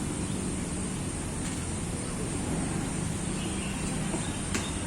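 Outdoor ambience of a city forest: a steady low rumble of distant traffic under a continuous high-pitched drone, with one faint click near the end.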